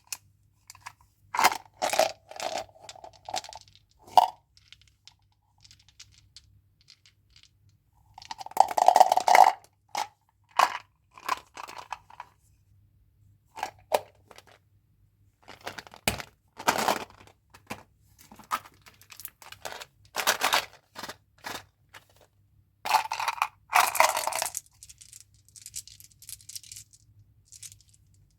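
Crinkly wrappers and packaging of chewing gum and candy being handled and torn open, in short irregular bursts with pauses between, plus small clicks and taps. The longest, loudest crinkling comes about nine seconds in and again near the end.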